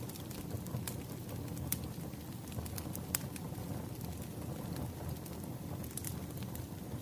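Wood fire crackling: a steady low rush of flames with irregular sharp pops and snaps from burning logs.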